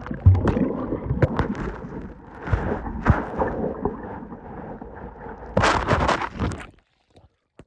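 Water splashing and knocking as a phone that is recording drops into the creek beside a kayak, with a loud splash toward the end. About seven seconds in, the sound cuts off abruptly to near silence as the phone goes under the water.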